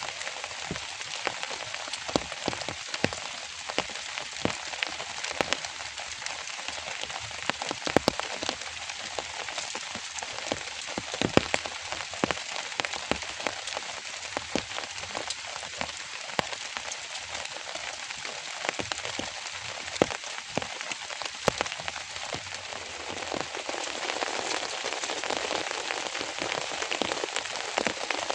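Steady rain, a continuous hiss with many single drops ticking sharply on a surface, falling a little harder near the end.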